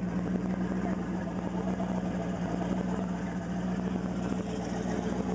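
Twin-turbo 370-cubic-inch LS V8 engine in a Mazda RX-7 running steadily, with an even, unchanging note.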